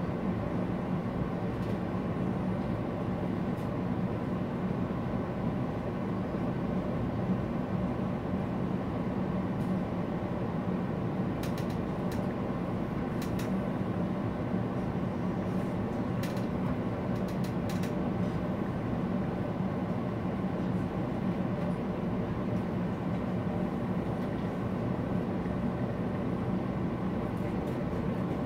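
A Mugunghwa-ho passenger train running at steady speed, heard from inside the carriage: an even rumble with a low hum and a few faint clicks from the track in the middle.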